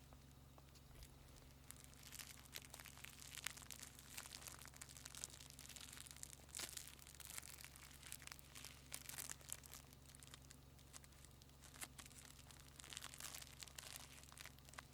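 Faint scratching and rustling in irregular bursts, over a steady low electrical hum.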